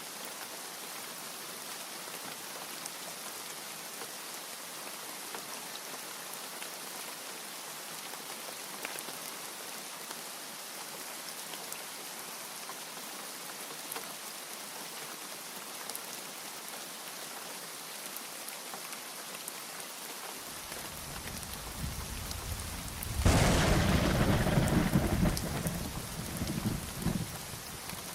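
Steady heavy rain falling, with a thunderclap about three quarters of the way through: a low rumble builds, breaks into a loud crack and roll for a few seconds, then dies away in a last rumble.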